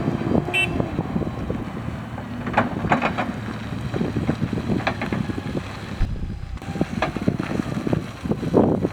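Propane-fuelled Crown CG70S-7 forklift engine running, with wind buffeting the microphone and a few clicks and knocks.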